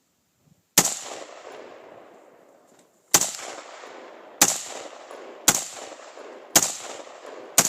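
Colt AR-15 rifle fired in single shots: six shots, the first about a second in and then roughly one a second, each ringing out and dying away before the next.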